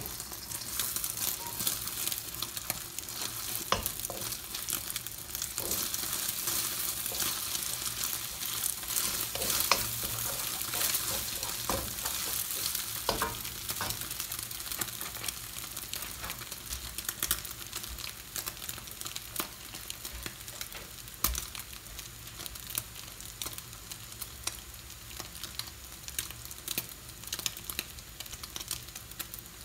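Beaten eggs frying in olive oil in a wok, sizzling steadily as they set and crisp into one big piece. A wooden spoon knocks and scrapes in the pan now and then during the first half.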